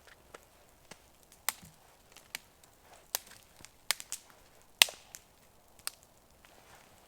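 Campfire crackling, with about ten sharp, irregular pops of burning wood, the loudest just before five seconds in.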